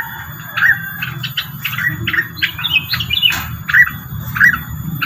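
Rengganis bird lure call: short, sharp chirps repeated about twice a second, with a quick tumble of higher notes about halfway through.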